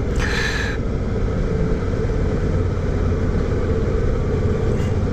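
Motorcycle engine running steadily while riding along at cruising pace, a low even hum with road and wind noise. A brief higher-pitched hiss cuts in just after the start and stops within about half a second.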